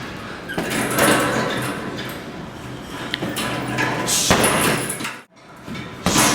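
Thuds and slaps of strikes landing, sharp knocks with room echo, cut by a brief gap about five seconds in.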